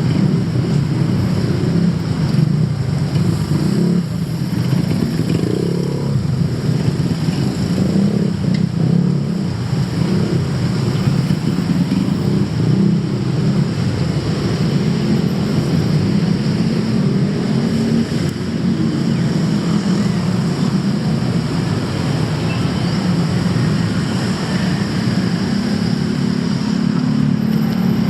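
Road traffic: motor vehicle engines running close by in a steady, continuous low hum.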